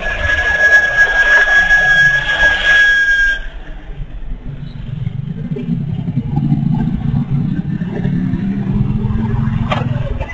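Heavy road vehicles on the road: a single steady high-pitched tone is held for about three and a half seconds over traffic noise, then it stops and a large engine runs with a low rumble that grows louder toward the end.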